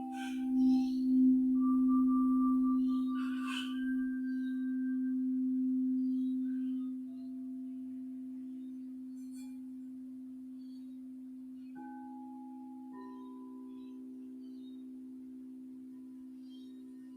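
Singing bowls ringing with a steady low hum, struck a few times in the first seconds and again about twelve seconds in, when higher tones join. The ring slowly fades between strikes.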